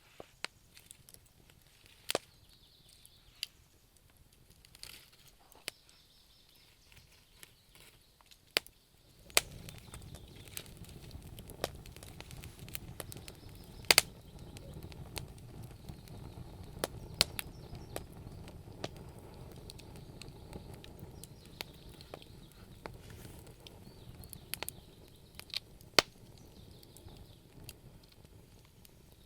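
Wood fire in a fireplace crackling, with scattered sharp pops. About a third of the way in a low, steady rushing of the flames sets in under the pops.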